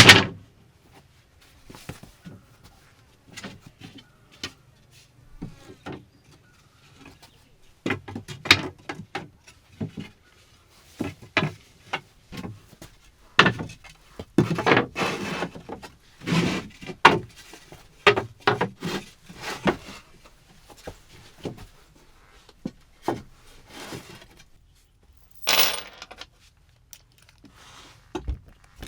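Irregular knocks, clicks and scrapes of objects being handled, with one loud knock right at the start and a busier stretch of handling in the middle.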